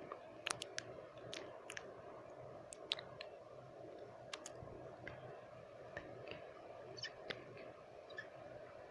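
Close-miked wet mouth sounds: sharp tongue and lip clicks coming irregularly, a dozen or so, over a steady background hiss of white noise.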